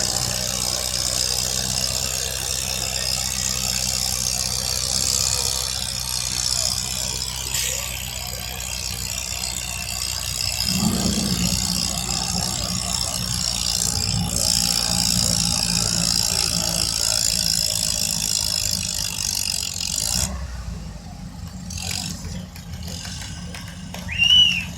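Competition tractor engine running steadily at full power. The sound drops away about twenty seconds in, and a short squeal comes near the end.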